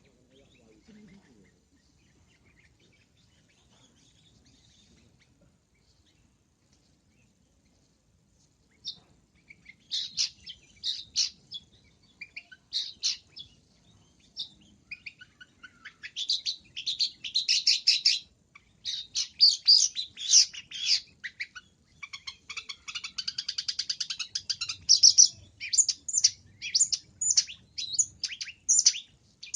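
Long-tailed shrike (cendet) singing a varied song of rapid, high chirps with mimicked fill-in phrases, including a fast trill. The song starts after about nine seconds of near silence.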